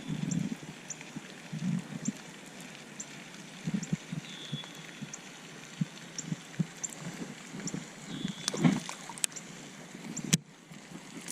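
Outdoor ambience: a faint high tick repeating about every half second and a few short high chirps, over low rustling and knocks of handling. There is a louder knock and rustle near the end, then a sharp click.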